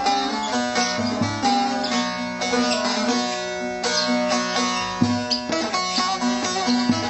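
Buzuq saz, a long-necked fretted lute, playing a quick plucked melody over a steady low drone note.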